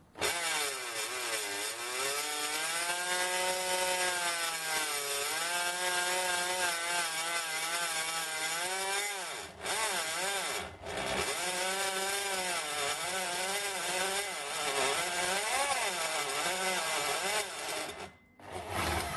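Electric drill with a noisy, failing gearbox driving an HSS step drill bit into soft aluminium sheet. Its whine rises and falls in pitch with the trigger, with two brief stops a little past halfway and another near the end. The bit is galling and deforming the aluminium rather than cutting it cleanly.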